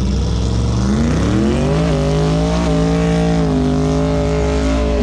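Car engine accelerating hard: its note climbs steadily for a second and a half, steps briefly near the two-second mark, then holds at a high steady pitch before dropping off sharply at the end. A steady low rumble runs underneath.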